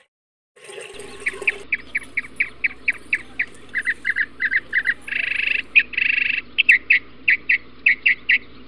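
A small bird chirping in a rapid, even series of short calls, about three to four a second, with two longer held notes about halfway through.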